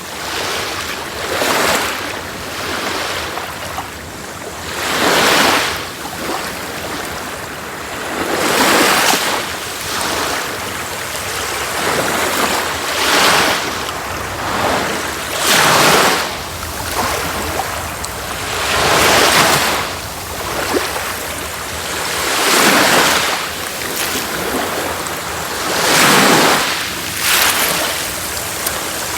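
Sea waves breaking on a shore, each wave swelling into a rushing surge and washing back, about every three to four seconds.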